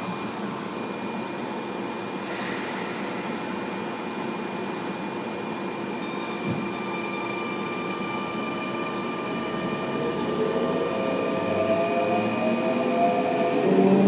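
Sotetsu 9000 series electric train with a steady hum and fixed electrical tones. About ten seconds in, a whine from its traction motors starts rising in pitch and getting louder as the train pulls away and accelerates.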